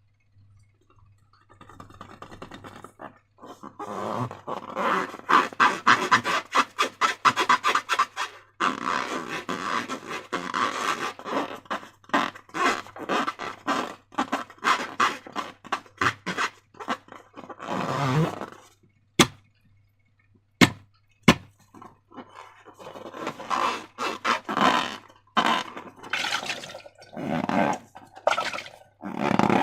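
Slime being worked by hand, squished and stretched, giving dense sticky crackling and clicking in irregular bursts, with three sharp single clicks about two-thirds in.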